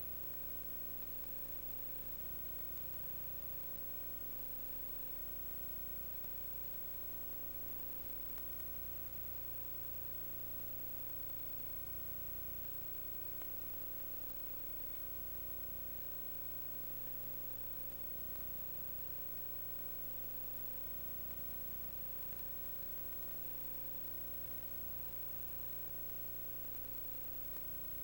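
Steady electrical hum with several constant tones over an even background hiss, unchanging throughout.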